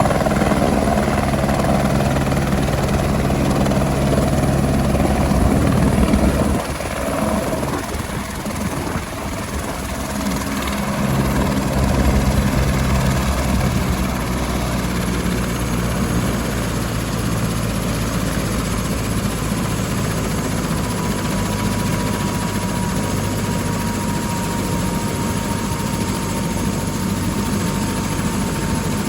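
Eurocopter AS350 single-engine helicopter coming in to land, its main rotor beating steadily over the turbine's noise. The sound dips a little about seven seconds in and builds again around eleven seconds. In the second half a faint whine slowly falls in pitch.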